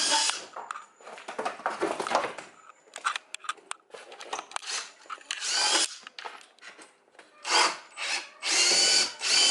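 Handheld power tool on timber run in several short bursts, its motor whining up and down in pitch, with a quieter stretch of small clicks and knocks in the middle.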